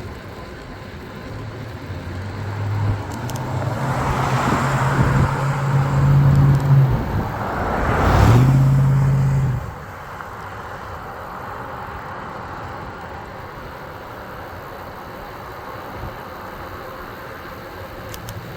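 A motor vehicle passing close by, its engine hum and tyre noise swelling over several seconds, peaking about eight seconds in, then dropping away suddenly.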